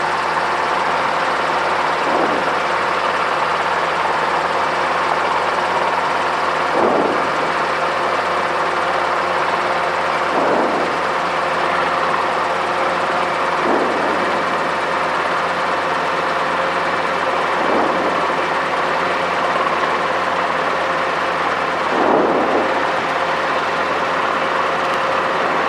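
Robinson R22 helicopter's piston engine and rotors running steadily, heard from inside the cabin as the helicopter is picked up into a hover, with brief swells in the noise every few seconds.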